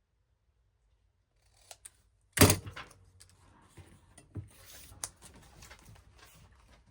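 Craft-desk handling noise: two small clicks, then a sharp knock of something set down on the desk about two and a half seconds in, followed by light scattered clicks and rustling of paper and tools.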